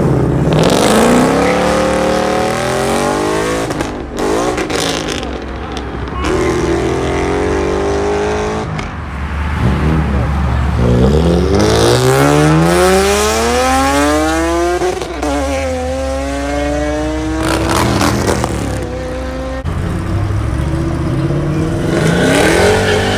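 Performance car engines revving hard and accelerating away, the pitch climbing in several long runs. The longest rise, from about eleven to fifteen seconds in, drops suddenly and then climbs again, like an upshift.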